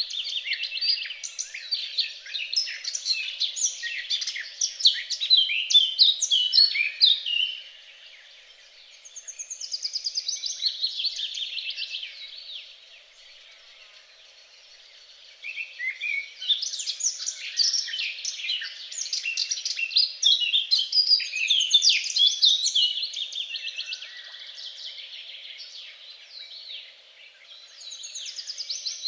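Songbirds singing long phrases of rapid, varied high notes, broken by short pauses. About a third of the way in comes a fast series of repeated notes falling in pitch.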